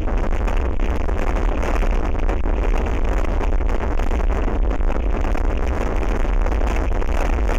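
Very strong wind buffeting an outdoor nest-camera microphone: a steady, loud low rumble with hiss, without a break.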